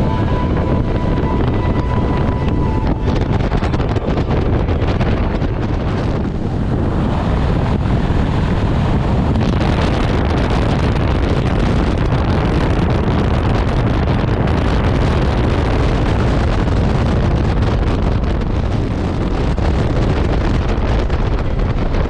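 Wind blasting over the microphone of a moving motorcycle, loud and steady, over a low rumble from the ride.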